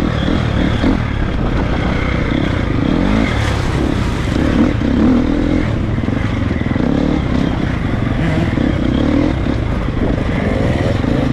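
Triumph 250 motocross bike's four-stroke single-cylinder engine revving up and down under hard off-road riding, with knocks and rattles from the bike over rough ground.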